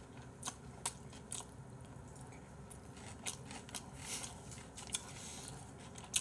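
Close-miked chewing of crispy fried chicken, with sharp crunches at irregular intervals.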